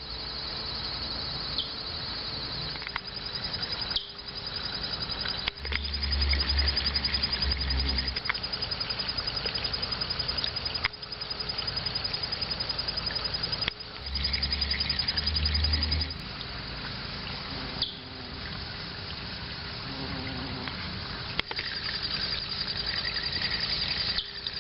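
Backyard pond water trickling, under a steady high-pitched pulsing trill. A deep wind rumble on the microphone comes in twice.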